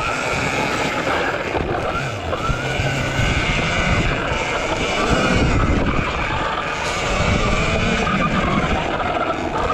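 RFN SX E15 Plus electric dirt bike being ridden: its electric motor whine rises and falls in pitch with the throttle, over a steady rushing noise.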